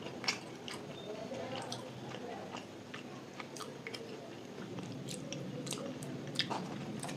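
Close-miked chewing of luchi, soft deep-fried bread, with vegetable curry: many short wet mouth clicks and smacks over a steady low background hum.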